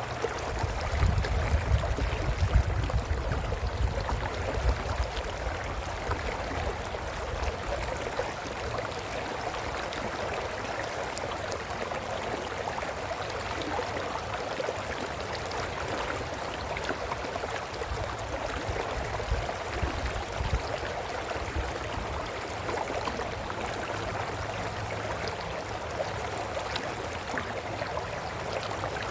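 Brook flowing steadily over stones, an even rushing babble. A low rumble swells in the first few seconds and again about two-thirds of the way through.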